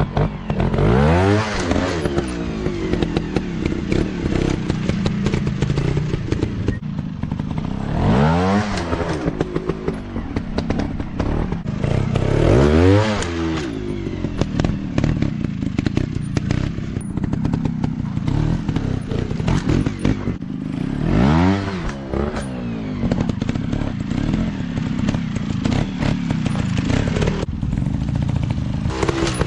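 Dirt bike engines running, rising in pitch and falling back in several hard rev bursts: about a second in, around 8 and 13 seconds, at about 21 seconds and again near the end. Between the bursts the engines run at a lower, uneven pitch, with some clattering.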